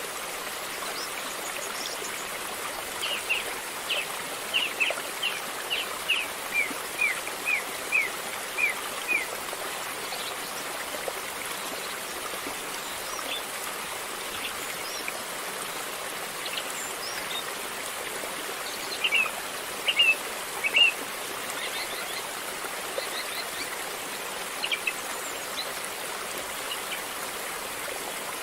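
River water flowing steadily. A bird calls over it: a run of about a dozen quick chirps, stepping down in pitch, a few seconds in, and a shorter burst of chirps around twenty seconds in.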